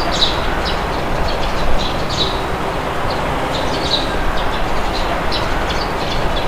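Steady wind noise with many small birds chirping over it in short high chirps, several a second.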